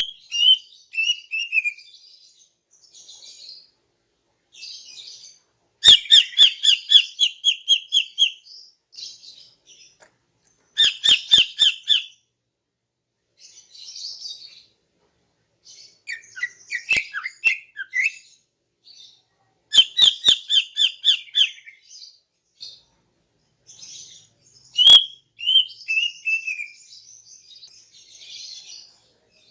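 Female cucak ijo (green leafbird) calling: loud runs of rapidly repeated high chirps, three of them a few seconds apart, with softer scattered chirps between and a couple of sharp clicks.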